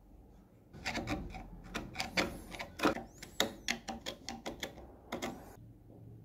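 An irregular run of sharp metal clicks and taps as parts of an old barn padlock are worked loose and taken apart. It starts about a second in and stops about a second before the end.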